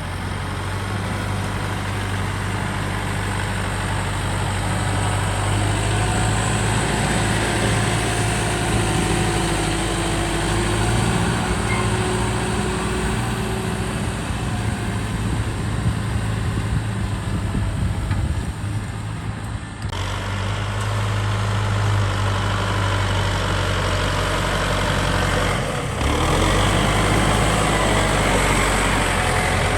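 Kubota ZT155 DI single-cylinder diesel engine of a two-wheel hand tractor running steadily, with the sound changing abruptly about two-thirds of the way in and again a few seconds later.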